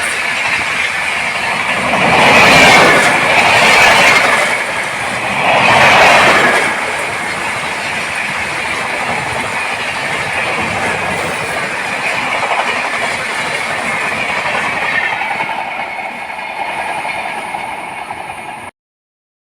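A high-speed train running past, its wheels clattering over the rail joints and the coaches rushing by, with loud surges in the first several seconds. The sound cuts off abruptly near the end.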